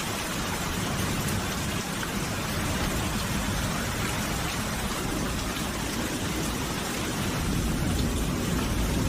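Steady rain falling, an even hiss of many drops, with a low rumble swelling slightly near the end.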